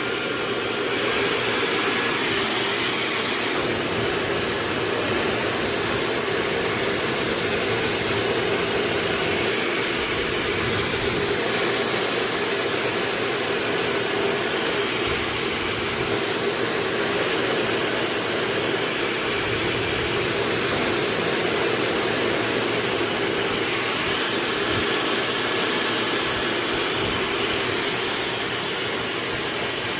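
PLAVOGUE high-speed (160,000 RPM) hair dryer running steadily on its second speed while drying a lock of wet hair: a continuous rush of air with a low hum under it.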